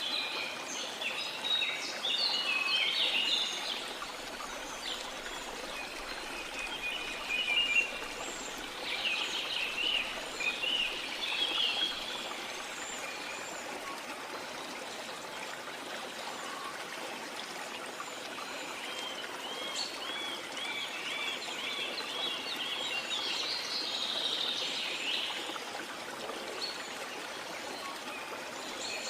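Waterfall rushing steadily, with rainforest birds chirping and singing over it in spells: busiest at the start, again around ten seconds in, and through the last third.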